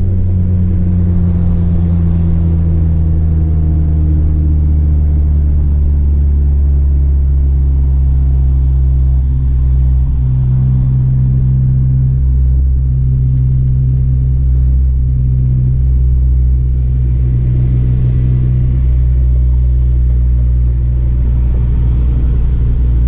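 Turbocharged 2015 Honda Civic Si's 2.4-litre four-cylinder engine heard from inside the cabin while driving, a steady low drone at light load with only small changes in pitch.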